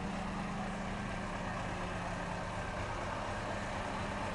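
Scania truck's diesel engine idling steadily, a low even hum.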